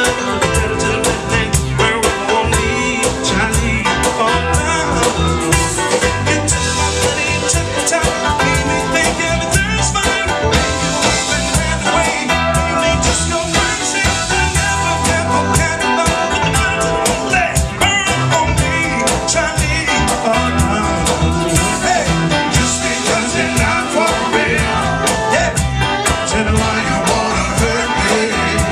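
Live soul band playing with guitar and a steady drum beat, a voice singing over it, heard through a small camcorder's microphone.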